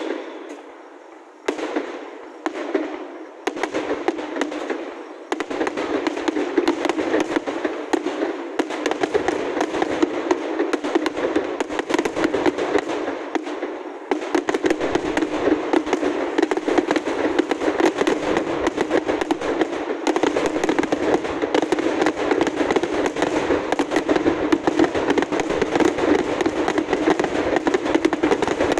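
Aerial fireworks display: a few separate shell bursts in the first few seconds, then from about five seconds in a dense, unbroken barrage of bangs and crackling that grows heavier about halfway through.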